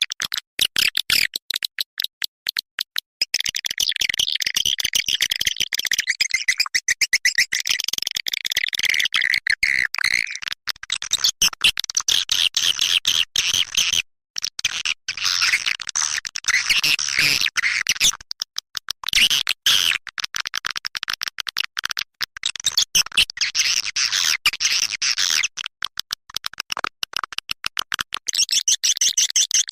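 Swiftlet calling-sound track (suara walet panggil): dense, rapid, high-pitched twittering chirps and clicks of edible-nest swiftlets, briefly breaking off twice, the kind of recording played to lure swiftlets into a nesting house.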